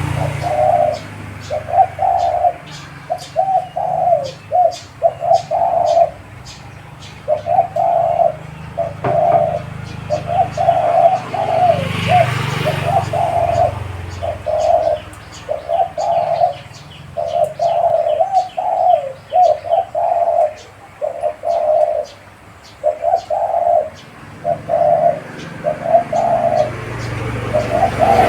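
Decoy dove cooing repeatedly, phrase after phrase with short pauses between, with a faint rapid high ticking of chirps behind it.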